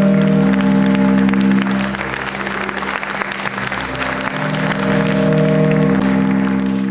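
Audience applauding over music with long held chords; the chords drop back for a couple of seconds in the middle, then swell again.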